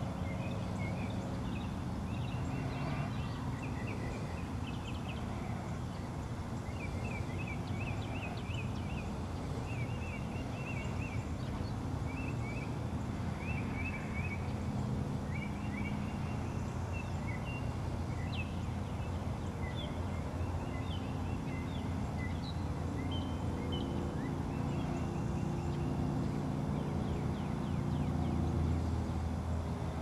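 Small birds chirping and twittering in the trees: quick runs of short high notes, repeated over and over, with a steady low hum underneath.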